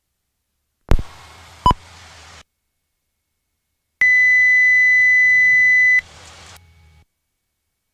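Electronic beeping: a sharp click, a short high blip, then one steady high-pitched beep lasting about two seconds.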